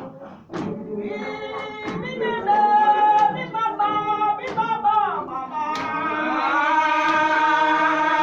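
Choir of several voices singing a cappella in sustained, held notes, which come in about a second in and swell in the second half. A sharp beat lands roughly every second and a half through the first half.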